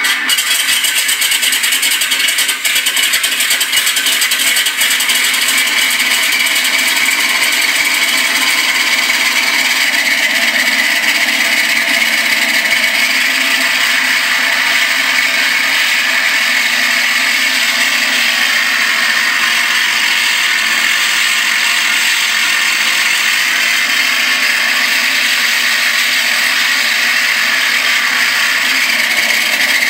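Wright Cyclone R-1820 radial engine sound of a B-17G, a single engine running steadily. It comes in suddenly at full level.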